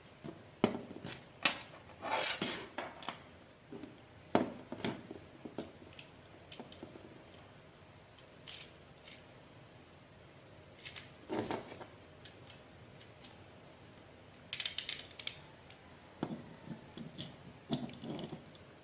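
Handling of a plastic Beyblade spinning top and its launcher: scattered small plastic clicks and knocks, with a couple of brief scraping rattles.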